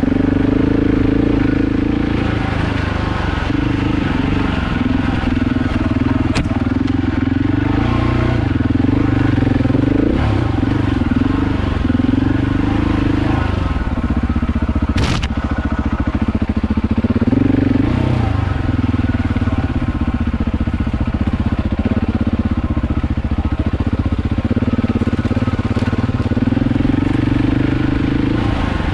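KTM 690 Enduro's single-cylinder engine running steadily as the bike is ridden, its note rising and falling a few times with the throttle. A single sharp knock sounds about halfway through.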